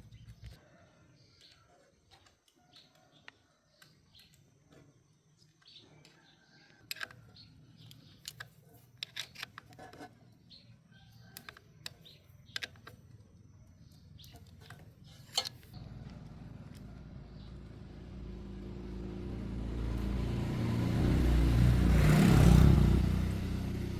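Scattered light clicks and short chirps. About two thirds of the way through, a motor vehicle's engine comes up, grows louder for several seconds, peaks near the end and begins to fade as it passes close by.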